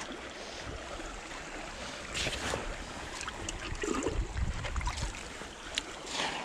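Shallow creek water sloshing and trickling, with scattered small splashes and clicks.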